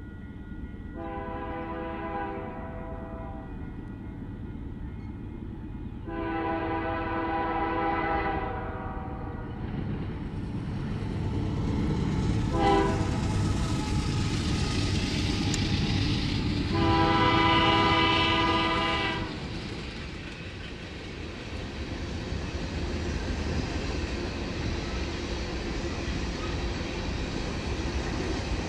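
Diesel locomotive's multi-chime air horn sounding the grade-crossing signal, long, long, short, long, as a train approaches. The heavy rumble of the train passing builds under the last blasts and carries on after them.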